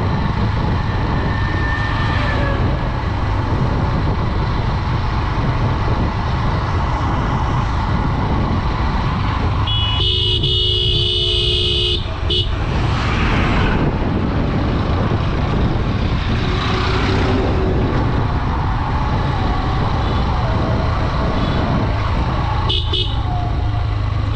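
Steady wind rush and the engine of a Honda Dream 110 commuter motorcycle running on the move. A vehicle horn sounds for about two seconds roughly ten seconds in, and a short toot comes near the end.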